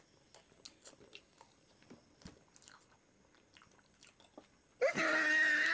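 Faint wet mouth clicks of bananas being chewed with a full mouth. Near the end a louder voice sound starts and is held on one steady pitch, a closed-mouth hum.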